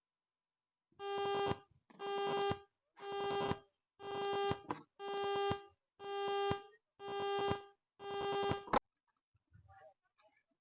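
An electronic beeper sounding eight times, about one beep a second, each a steady buzzy tone of about half a second, with a sharp click right after the last beep.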